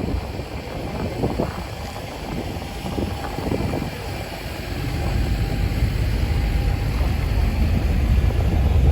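Strong wind buffeting the microphone as a deep, rough rumble, with a few short gusts early on and a swell that grows louder over the last few seconds.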